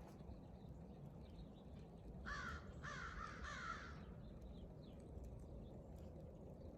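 Crow cawing three times in quick succession, harsh calls about two seconds in.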